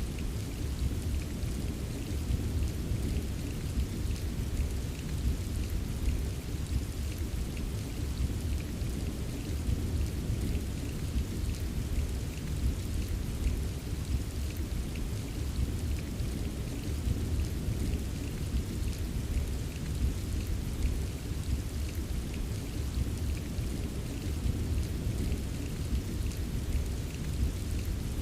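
Steady rain ambience: an even hiss of rainfall over a continuous deep low rumble, with faint scattered raindrop ticks.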